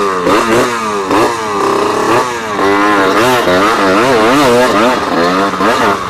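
Trail or enduro motorcycle engine being revved in quick repeated throttle blips, its pitch rising and falling over and over.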